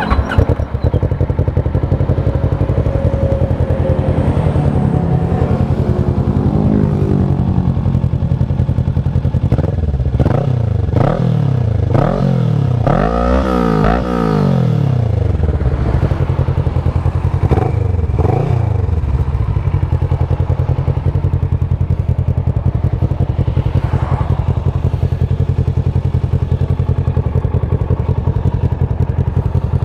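Kawasaki ER-6f's 649 cc parallel-twin engine through a Leo Vince SBK slip-on exhaust, idling steadily, then given several quick throttle blips in the middle, the biggest rev about halfway through, before settling back to idle.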